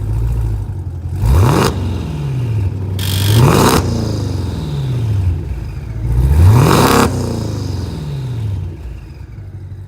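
Twin-turbocharged GM LT4 V8 in a 2017 Camaro ZL1 idling, then revved three times, each rev rising quickly and falling back to idle.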